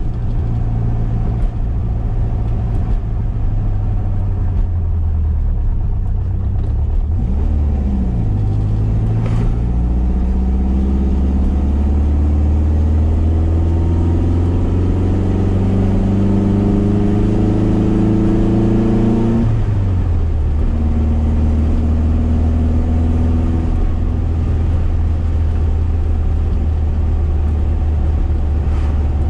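1973 VW SP2's air-cooled flat-four with dual 40 carburettors and stainless exhaust, heard from inside the cabin while driving. The engine note dips and recovers about seven seconds in, then climbs steadily under acceleration for about ten seconds, drops sharply, and runs at a steady pitch for the rest.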